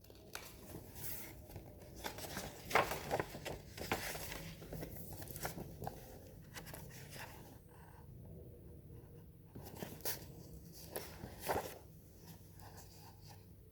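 A picture book being handled and its pages turned: irregular soft rustles and small clicks, a few a little louder.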